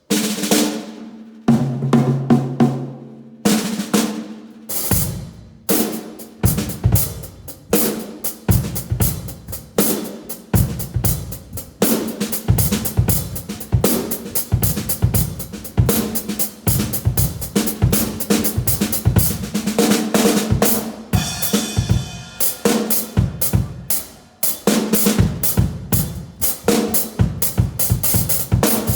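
Drum kit played with mallets, the soft heads muffling the attack of the toms, snare and bass drum, with the drums ringing out in a room with a 40-foot ceiling. It opens with a few separate tom strokes, then becomes a continuous run of rapid strokes, with a cymbal roll swelling about two-thirds of the way through.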